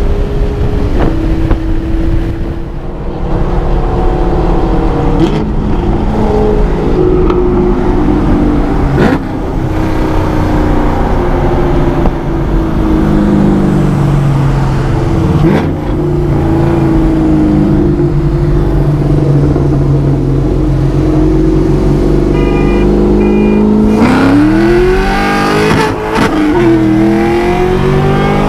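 Mercedes-Benz E55 AMG's supercharged V8 heard from inside the cabin at highway speed: mostly a steady cruise with the revs drifting slowly, then about four seconds from the end the revs climb hard under acceleration, drop briefly at a gear change, and climb again.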